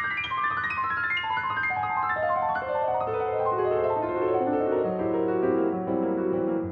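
Background piano music: a quick run of notes cascading steadily downward from high to low.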